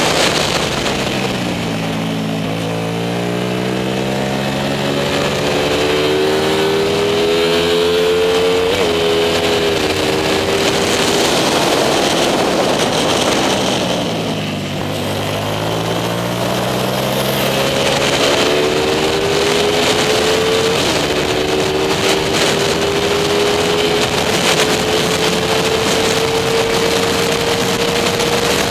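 Racing motorcycle's engine heard from onboard, revving up steadily with a gear change about a third of the way in, its pitch falling away as the rider backs off around the middle, then pulling up again with another upshift about two-thirds through.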